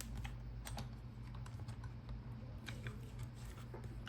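Irregular small clicks of a combination key box being handled, its code dials being turned to scramble the combination, over a low steady hum.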